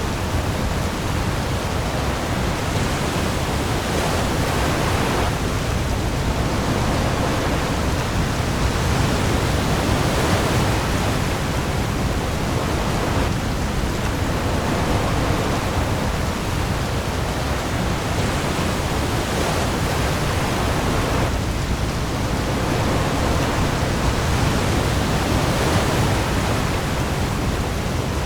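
Heavy rain pouring onto the sea surface with waves: a dense, steady hiss that swells and eases every few seconds over a deep low rumble.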